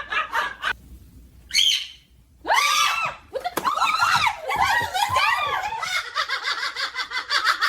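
High-pitched voices screaming and laughing, with a brief lull and a short shriek about one and a half seconds in, then a long run of rising-and-falling cries.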